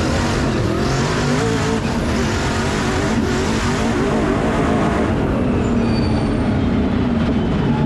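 Twin-turbo 1800 HP sand car engine running loud and steady, its pitch wavering up and down without dropping off.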